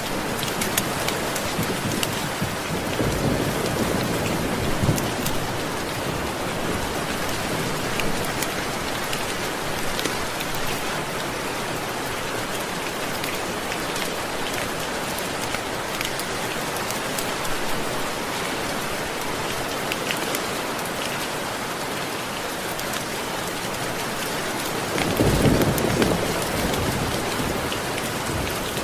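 Steady heavy rain falling on a surface, with scattered sharp drop ticks. Low rolls of distant thunder rumble twice, faintly about three seconds in and louder near the end.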